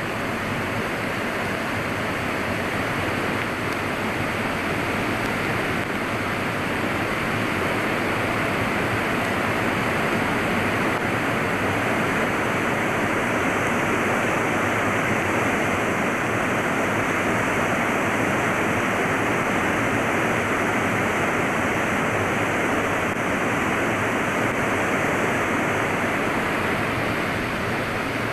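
Steady rush of fast-flowing water in a mountain gorge, a river and falls running high with no change in level.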